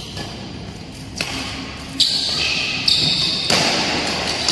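Badminton shuttlecock struck sharply by rackets four times during a rally, echoing in an indoor hall.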